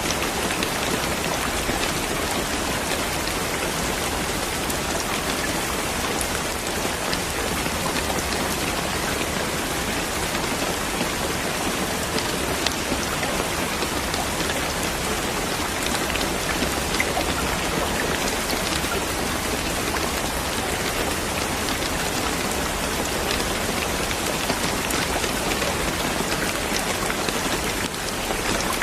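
Steady, even rainfall, with a dense patter of drops hitting a surface.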